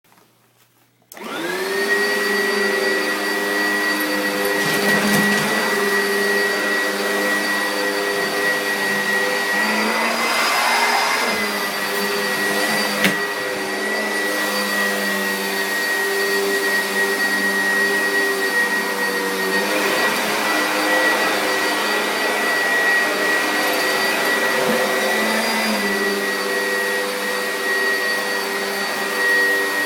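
Vacuum cleaner switched on about a second in, its motor spinning up to a steady high whine and then running continuously. The pitch lifts slightly a couple of times, and there is one sharp knock about 13 seconds in.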